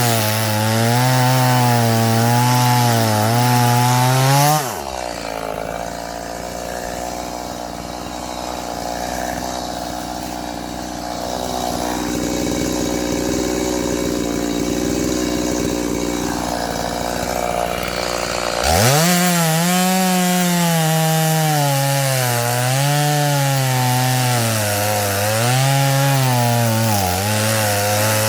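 Chainsaw cutting into firewood logs, its engine pitch wavering under load. About five seconds in it drops to a steady idle, then revs back up with a rising whine about fourteen seconds later and cuts again.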